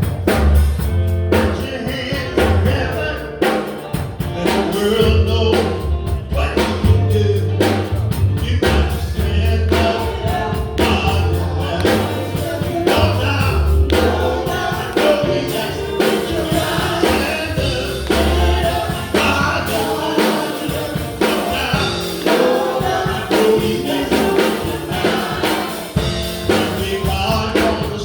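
Gospel group performing a song live: men singing together over drums, electric guitar and keyboard, with a strong bass line and a steady beat.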